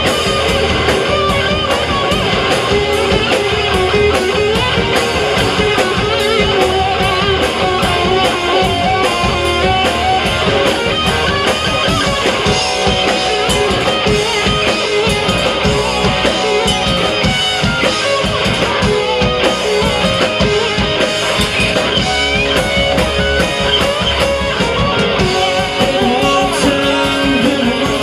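Live rock band playing an instrumental passage: electric guitars over a drum kit with a steady fast beat.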